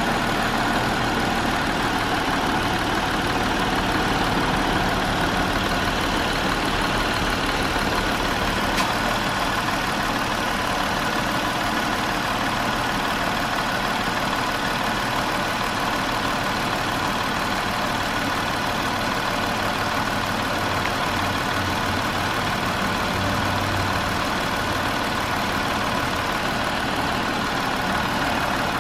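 2020 Jeep Wrangler engine idling steadily.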